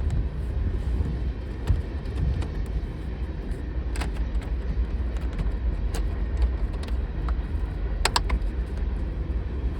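A few light clicks and clinks of parts and hand tools being handled in a pickup's engine bay, with a quick double click near the end, over a steady low rumble.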